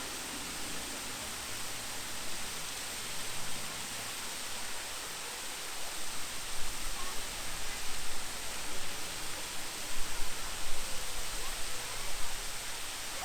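Water of a large park waterfall rushing in a steady hiss, with uneven low rumbles in the second half.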